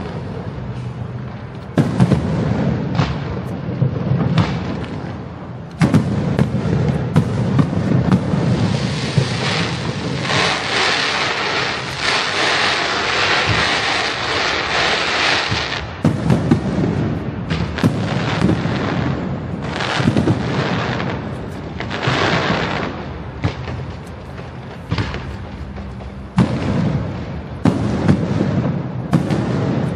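Fireworks display: a run of booming shell bursts over a low rumble, with a long stretch of dense crackling from about eight to sixteen seconds in.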